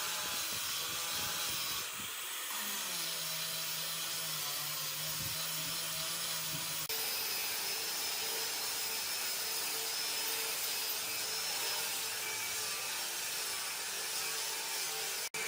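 Electric power tool running steadily with a motor whine and a hiss. The whine changes abruptly about seven seconds in, and the sound drops out briefly near the end.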